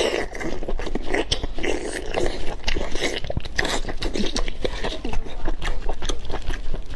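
Close-miked chewing of greasy grilled lamb intestine: a steady run of quick mouth clicks and crunches.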